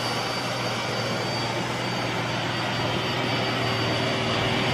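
iRobot Roomba s9+ robot vacuum running steadily while it cleans, a constant motor hum and whine over a broad rushing hiss of suction.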